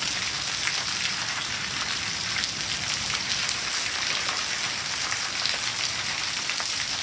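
Heavy rain pouring down and spattering on hard surfaces, a steady dense hiss full of fine drop patter.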